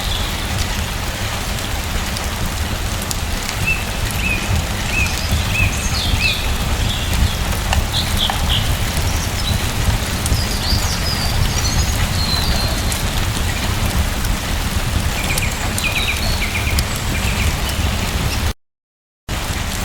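Steady rain with a low rumble underneath and scattered short bird chirps. Near the end the sound cuts out completely for under a second, then resumes.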